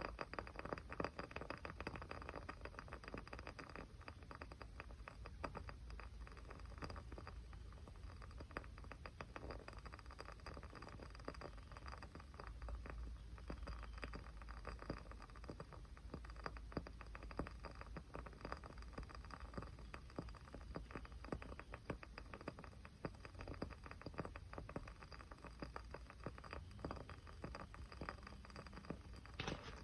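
Small fire crackling softly, with a dense, irregular stream of tiny pops and ticks.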